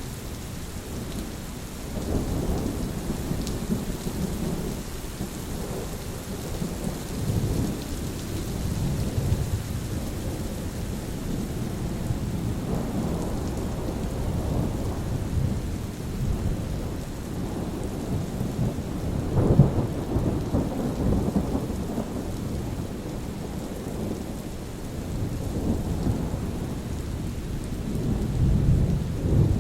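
Steady rain hissing, with rolling thunder rumbling and swelling repeatedly underneath, loudest at about 20 seconds in and again near the end.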